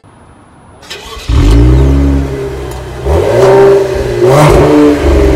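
2021 Cadillac CT5-V's twin-turbo V6 starting about a second in, heard from its exhaust, then revved up and back down twice.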